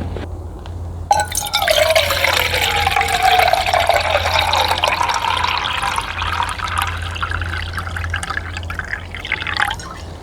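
Water being poured in a steady stream into a container, starting abruptly about a second in, with a steady low hum underneath.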